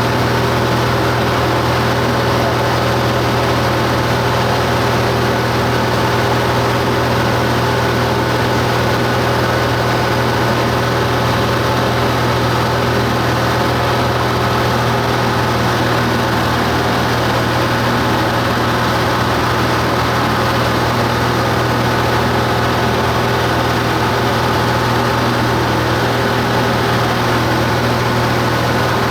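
Cessna 172 Skyhawk's piston engine and propeller droning steadily in flight, loud and unchanging in pitch.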